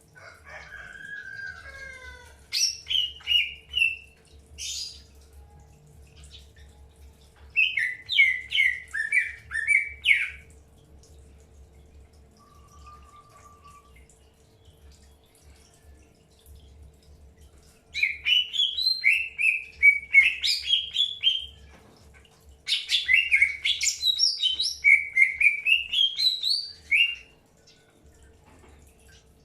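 Green leafbird (cucak hijau) singing in four bouts of rapid, warbling high phrases with pauses between them. A faint steady hum runs underneath.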